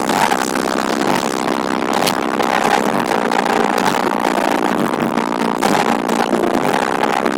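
DST PSW 40D2 subwoofer in a 130-litre box playing heavy bass, heard as a loud, steady, distorted buzz.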